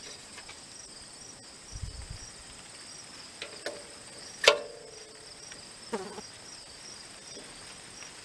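Crickets chirping steadily in a rapid pulsing rhythm, with a sharp metallic clank about halfway through that rings briefly, and a smaller knock about six seconds in.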